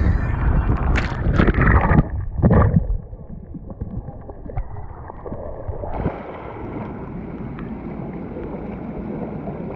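Rushing water and wind on an action camera riding down a water slide, with sharp splashes; about three seconds in it drops suddenly to a quieter, muffled wash of water, as at the splashdown run-out.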